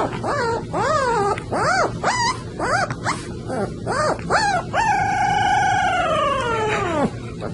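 Dog howling: a quick run of short, rising-and-falling yelping notes, then one long held howl that drops in pitch near the end.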